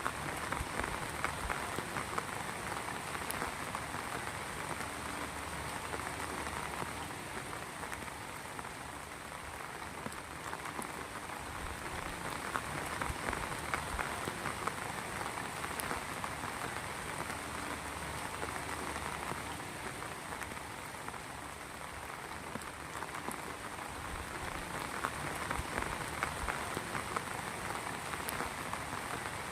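Heavy rain falling steadily, a dense patter of drops that swells and eases gently without a break.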